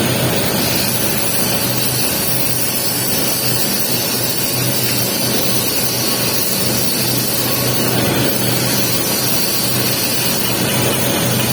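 Electric welding arc laying the capping pass on a pipe joint: a steady, unbroken hiss with a low hum underneath.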